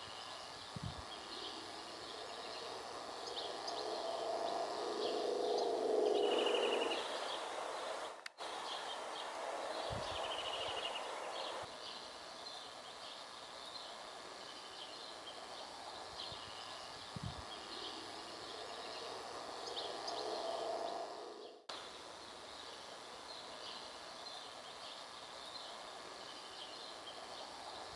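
Many wetland birds chirping and calling in quick short notes, with a brief trill twice. A low rumble swells up and fades in the background a few seconds in, and again more faintly later.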